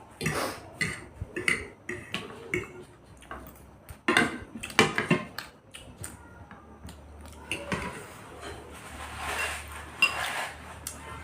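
Spoons and forks clinking and scraping against bowls in irregular clatters while noodles and soup are eaten, with a louder run of clinks about four seconds in.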